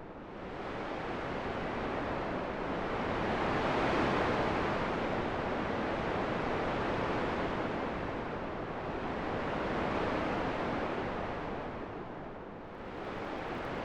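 Wind blowing in slow swells, rising and falling about every six seconds, loudest about four and ten seconds in and dipping near the start and again near the end.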